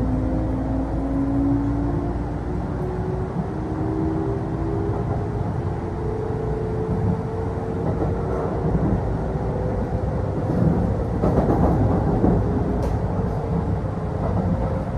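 Kintetsu Osaka Line electric local train running, heard inside the passenger car: a steady rolling rumble of wheels on rail, with the traction motors' whine slowly rising in pitch as the train picks up speed and then holding steady. A louder, rougher stretch of rumble comes about eleven seconds in, with a sharp click just after.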